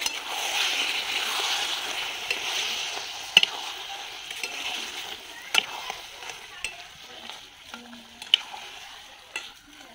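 Duck curry sizzling in a steel kadai while a metal spatula stirs and scrapes it, with sharp clinks of the spatula against the pan every second or two. The sizzle is loudest at first and fades over the next few seconds.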